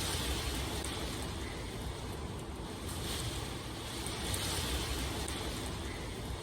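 Steady rain: a continuous rushing hiss over a low rumble, swelling and easing every second or two, with faint scattered drop ticks.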